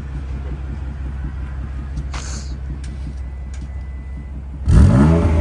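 BMW M3 F80's twin-turbo inline-six, breathing through an aftermarket Power Craft exhaust, idling steadily, then revved briefly near the end, its pitch sweeping up as it gets louder.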